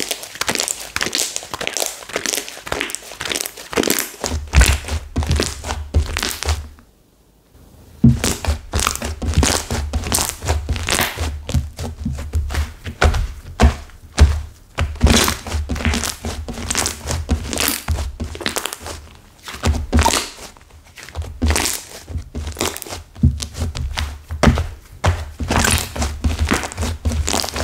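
Stiff, hardened clay slime being squeezed and pressed by hand, giving a dense run of crackling, crunching snaps over soft low thunks. The sound breaks off briefly about seven seconds in, then carries on.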